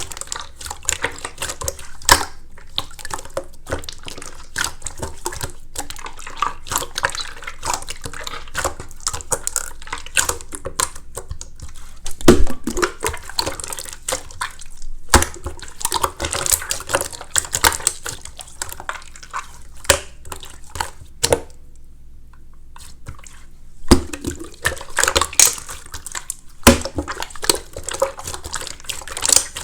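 Slime being squished and poked by hand: an irregular run of wet clicks, squelches and small pops, with a short pause about three quarters of the way through.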